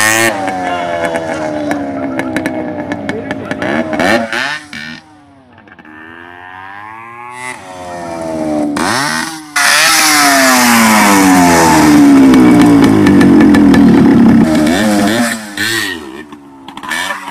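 Yamaha RX100's two-stroke single-cylinder engine revving up and dropping back again and again as the motorcycle is ridden, in several takes spliced together with abrupt cuts. The loudest stretch is a long high rev in the second half.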